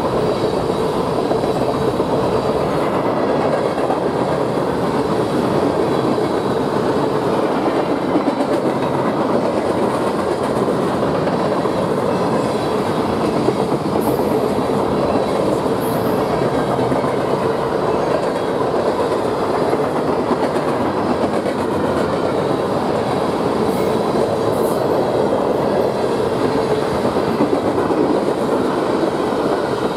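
A train's cars rolling past close by: a steady, loud rumble with the clatter of wheels running over the rails.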